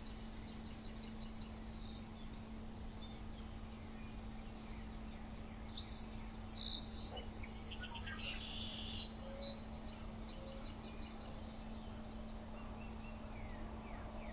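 Morning birdsong: small birds chirping and calling, with a louder burst of song about seven seconds in, a quick trill just after, and short calls repeated evenly near the end. A steady low hum runs underneath.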